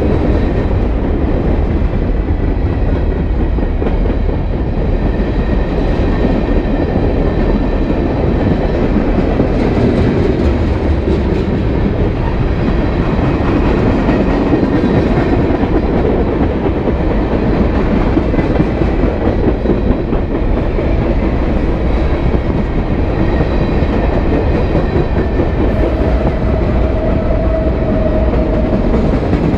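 Freight train cars (covered hoppers, tank cars, boxcars) rolling past close by at steady speed: a continuous loud rumble and rattle of steel wheels on the rails. A short steady tone rises out of it for a couple of seconds near the end.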